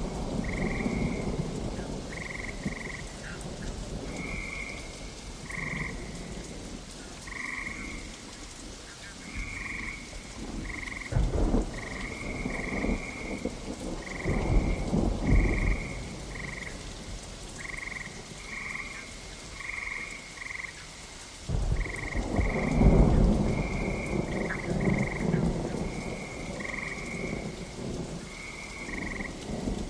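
Steady rain with frogs calling over it in short croaks, about one a second. Thunder rumbles low several times, the loudest roll starting about two-thirds of the way through.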